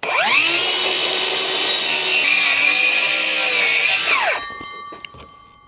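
Circular saw spinning up with a rising whine and cutting through wooden batten for about four seconds, then winding down with a falling whine, leaving a faint ringing tone as the blade coasts. The blade is set about 1 inch deep, not quite enough to cut all the way through.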